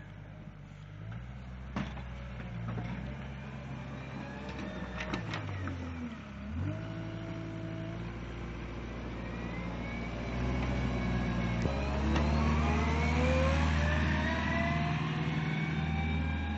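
Engine of a snow-clearing and gritting vehicle running, with a few sharp knocks in the first half. Over the last five seconds it revs higher and louder, its pitch rising steadily.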